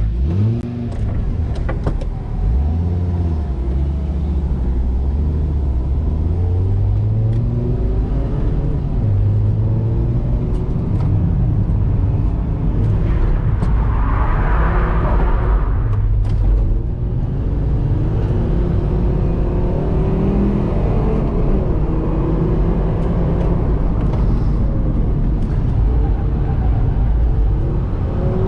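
Fiat Marea 2.0 20V's five-cylinder engine heard from inside the cabin under hard track driving, its pitch climbing and dropping again and again as it revs up and shifts through the gears. About halfway through, a brief rush of higher-pitched noise rises over the engine.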